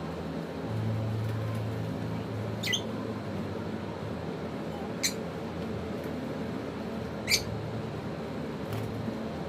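African lovebird giving three short, shrill chirps about two seconds apart, with a fainter one near the end, over a steady low hum.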